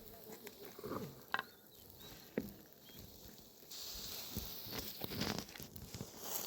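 Scattered light taps and rustles, with a steady hiss setting in about four seconds in.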